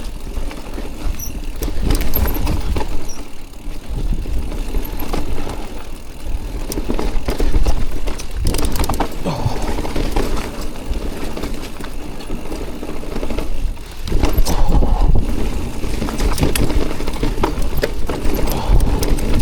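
Mountain bike ridden over rough, wet trail ground: clattering and rattling of the bike over bumps, with a heavy rumble from wind on the microphone, in uneven surges.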